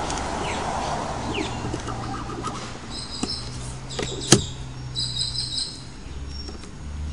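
Birds chirping in short high bursts over a low steady hum, with one sharp knock about four seconds in.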